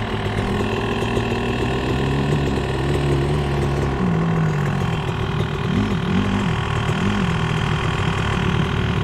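Dirt bike engines idling, with the pitch climbing slowly and dropping back at about four seconds in, then three quick throttle blips, each rising and falling, around six to seven seconds in.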